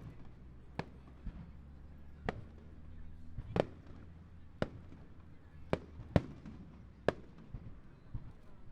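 Starmine fireworks display: aerial shells bursting as separate sharp bangs, about one a second at uneven intervals, each with a short echoing tail.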